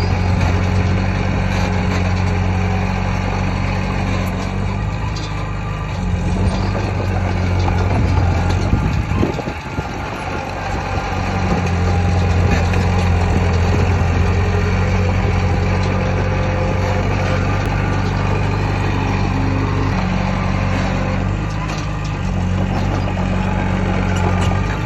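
Heavy diesel engine of earthmoving machinery running steadily, its note dropping briefly about nine seconds in and then rising again.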